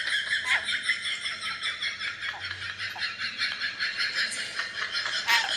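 Pet parrot chattering: a rapid, continuous stream of high squeaky chirps and clicks.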